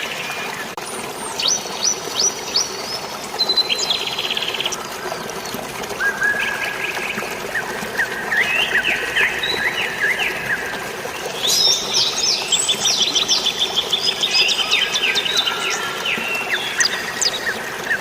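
Several birds chirping and trilling in quick repeated notes over a steady rush of flowing water. The calling grows busier about halfway through.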